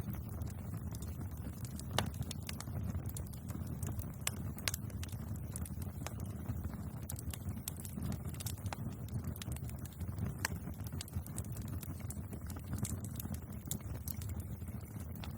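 Bonfire burning with a steady low rumble of flames and irregular sharp crackles and pops of burning wood.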